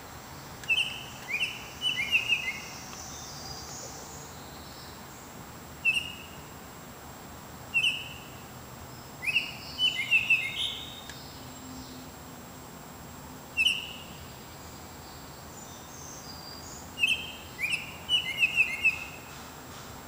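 A songbird singing short phrases of clear whistled notes that each slide downward, a phrase every few seconds, some a single note and some a quick run of several. Fainter, higher chirps of other birds sit behind it.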